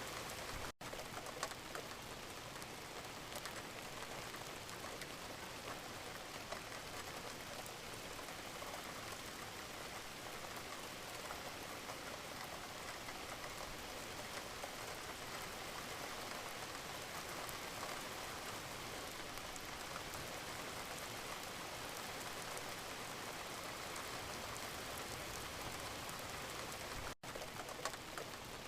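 Steady rain falling, an even hiss with scattered individual drops ticking through it. The sound cuts out for an instant twice, about a second in and again near the end, like the joins of a looped recording.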